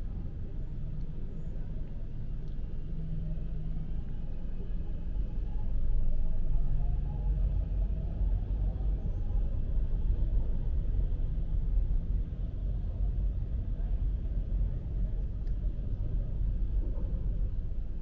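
Steady low rumble of street traffic, swelling briefly about six seconds in as a vehicle passes.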